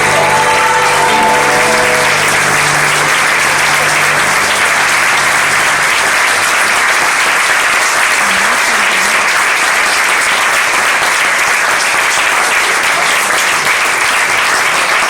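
Theatre audience applauding loudly and steadily, as the last held notes of the piano and voice die away over the first few seconds.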